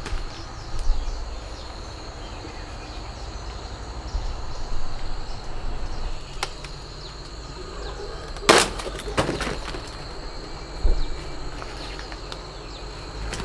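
Outdoor ambience with a steady faint high tone and a low rumble, broken by scattered knocks and rustles. The loudest is a short rustling crash about eight and a half seconds in.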